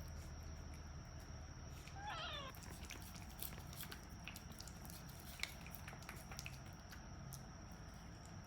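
A cat gives a single short meow, falling in pitch, about two seconds in. Faint small clicks and a steady high-pitched whine sit under it.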